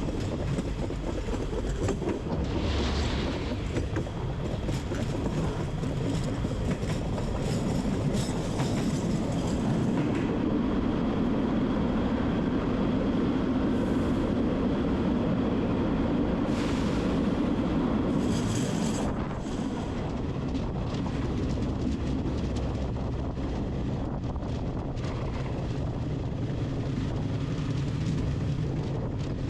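A train running along the tracks: a steady rolling noise that is loudest midway and eases slightly after about 19 seconds, with brief higher-pitched noises now and then.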